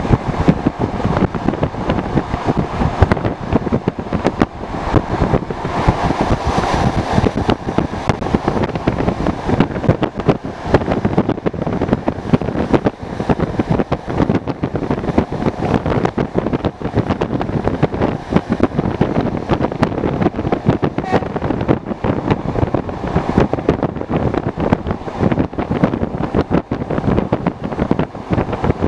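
Suburban electric train (elektrichka) running at speed, heard from its window: a steady rumble and rattle of wheels on the rails mixed with rushing wind.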